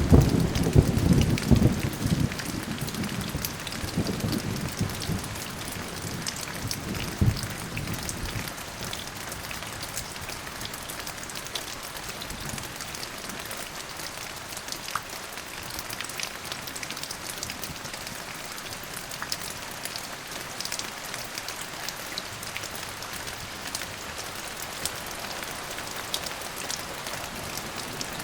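Steady rain falling, with a loud rumble of thunder at the start that rolls and dies away over about eight seconds, leaving the rain hiss with scattered drop ticks.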